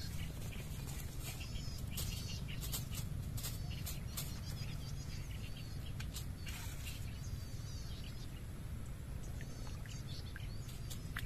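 Small birds chirping: many short, arched, high chirps in quick series throughout, over a steady low rumble.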